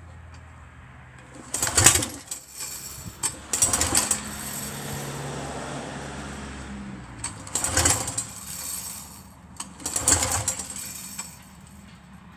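Homemade radial engine, fitted with a new exhaust system, running in about four loud surges of rapid firing, with a steadier stretch between the second and third. It is being test-run to see whether the longer exhaust cures its poor running at low revs.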